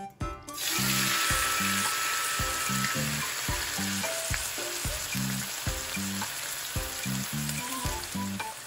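Seasoned beef liver landing in hot oil and frying with a loud, steady sizzle that starts suddenly about half a second in. Soft background music with a steady beat plays underneath.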